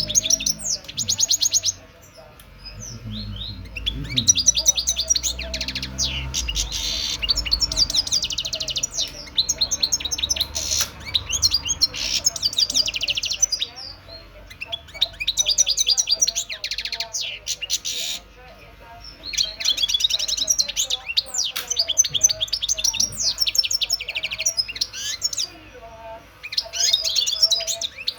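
European goldfinch singing in bouts of fast twittering song a few seconds long, with short pauses between them.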